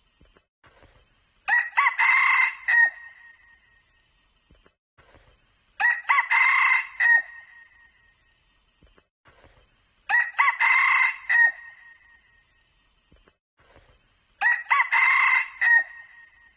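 Red junglefowl rooster crowing four times, about four seconds apart, each crow a short ringing call of about a second and a half.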